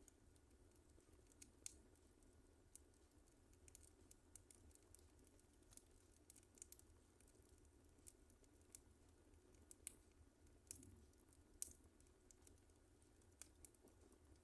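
Wood fire crackling in a fireplace: irregular sharp pops and ticks from the burning logs, a dozen or more spread unevenly, over a faint low hum.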